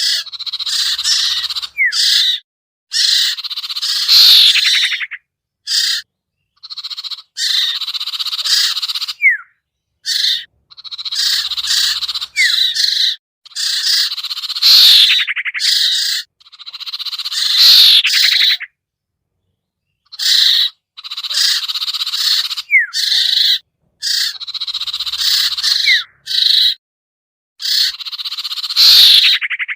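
Bird-lure recording of sirtu (sertu) calls: bursts of busy, high chattering separated by dead-silent gaps, the same sequence looping about every ten seconds. It is played back to draw wary wild birds down to a trap.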